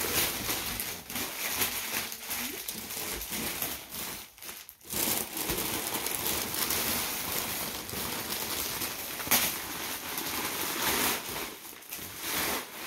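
Gift wrapping paper crinkling and crumpling, with sharper rustles now and then and a brief pause about four and a half seconds in.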